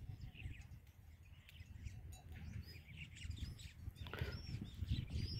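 Small birds chirping in short scattered calls, with a few clearer arched calls near the end, over a low, uneven wind rumble on the microphone.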